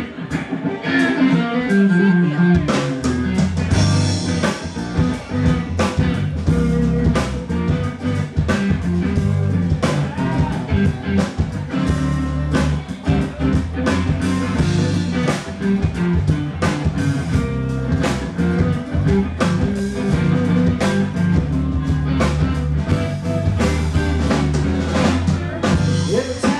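Live band playing a blues instrumental passage: electric guitar over a drum kit, with the bass coming in about two seconds in.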